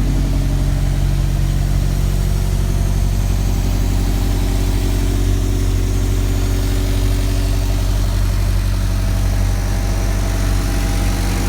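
Honda K-series inline-four engine idling steadily on its first run after installation on a fresh ECU tune.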